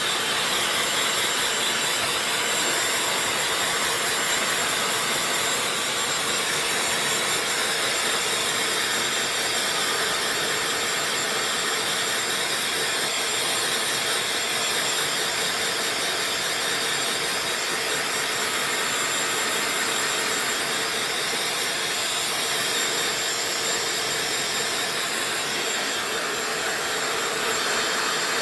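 Dyson hair dryer running steadily: an even airy rush of blown air with a faint high whine from its motor.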